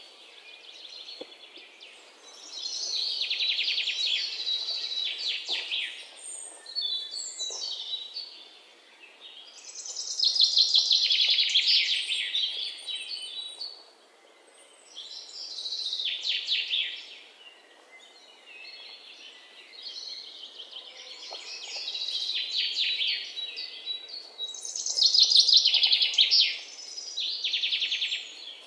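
Small birds chirping in repeated bouts of rapid, high-pitched trills, each a second or two long, with short pauses between.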